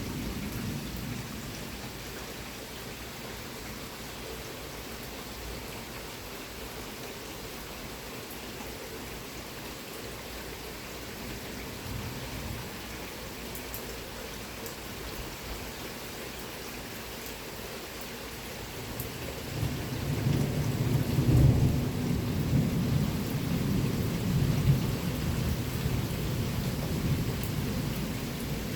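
Steady heavy rain, with a long low rumble of thunder that builds about two-thirds of the way through, is loudest a couple of seconds later and keeps rolling.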